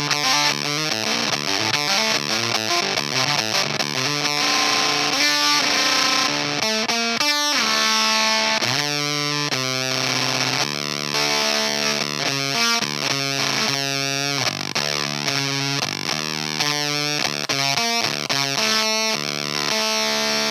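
Baritone electric guitar played through an EarthQuaker Devices Erupter fuzz pedal: a fuzzed-out riff of picked notes and ringing sustained notes.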